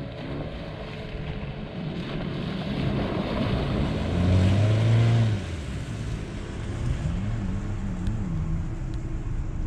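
SUV engine revving under load as it drives through a muddy, water-filled rut and past close by. The revs climb about three seconds in and are loudest around four to five seconds, then drop, with a second brief rise and fall near the end.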